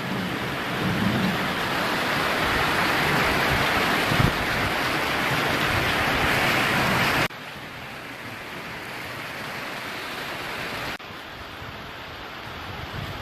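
Heavy monsoon rain pouring down in a dense, steady hiss. It drops sharply in loudness about seven seconds in and again near eleven seconds.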